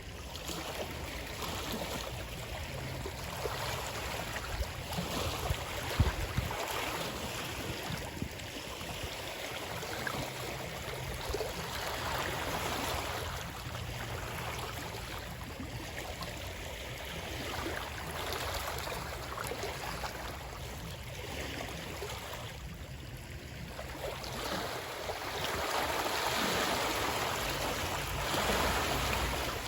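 Water rushing and splashing in a steady wash that swells and eases, growing louder near the end, with one brief sharp thud about six seconds in.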